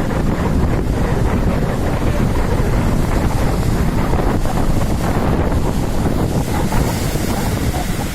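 Strong wind buffeting the microphone as a steady, loud low rumble, over the wash of a rough sea's waves.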